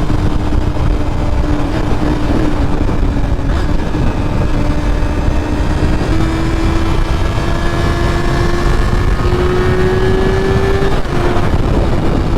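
Honda CBR600F4i inline-four motorcycle engine running under way, its note climbing slowly and steadily, with a brief break near the end. Wind rumbles heavily on the microphone.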